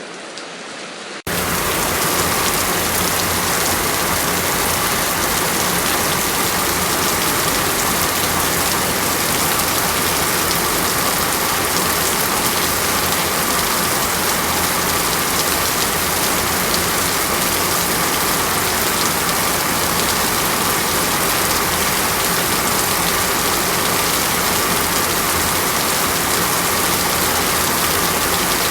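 Steady heavy rain, an even hiss with no thunder. About a second in, a quieter stretch of rain cuts off abruptly and louder, brighter rain takes over: a splice between two recordings.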